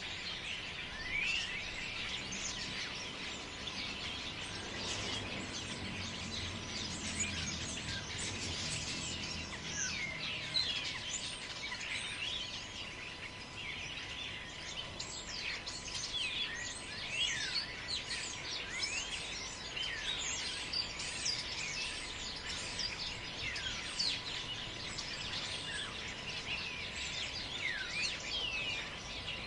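Many birds chirping and calling at once, short quick chirps overlapping without pause, over a steady hiss of wind, with a low gust of wind rumbling between about five and nine seconds in.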